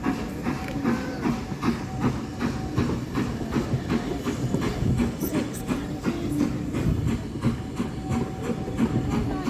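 Railway carriage running along the track: a steady rumble with the wheels clicking quickly and regularly over the rail joints.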